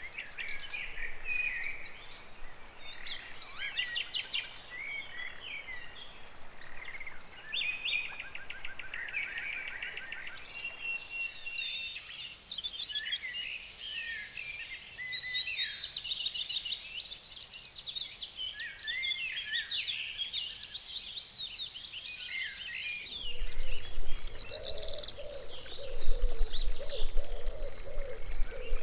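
Several songbirds singing together, a dense mix of chirps, trills and rapid runs of notes. A little before the end, a lower wavering sound and a low rumble join in and the sound gets louder.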